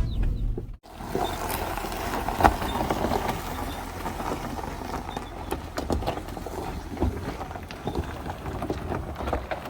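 A 4WD towing a caravan rolling slowly over a rough, rocky track: a low, steady engine rumble with many small clicks and crunches of stones under the tyres.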